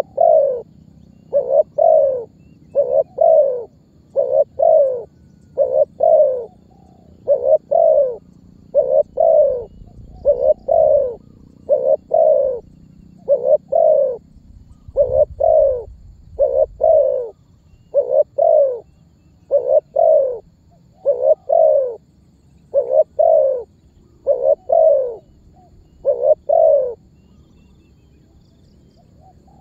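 Spotted dove (tekukur) cooing: a long run of short, low coo notes, mostly in pairs, repeated about every second to second and a half, stopping a couple of seconds before the end.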